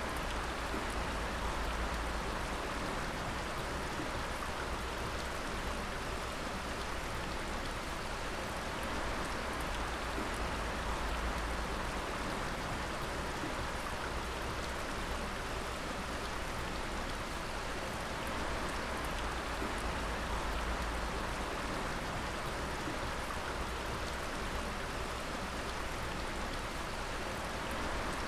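Water dripping: many drops falling in a dense, steady patter like rain.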